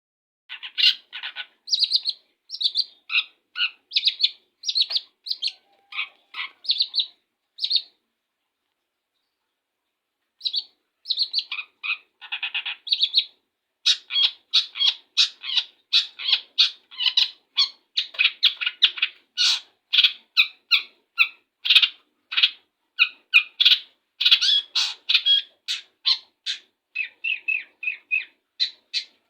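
Long-tailed shrike singing a fast series of short chattering, chipping notes. It pauses for a couple of seconds about a quarter of the way through, then resumes and grows denser and more continuous.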